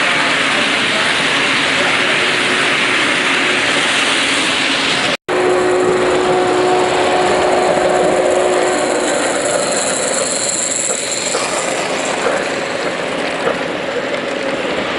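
Model trains running on layouts, wheels clicking over the track against a steady wash of hall noise. About five seconds in, the sound cuts out for a moment; after it a steady tone holds for a few seconds.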